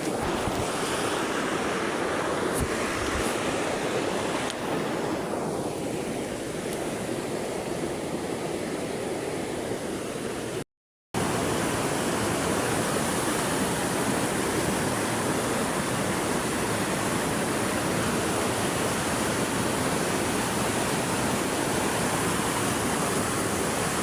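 River water rushing steadily in a dense, even noise, broken by a brief gap of silence about eleven seconds in.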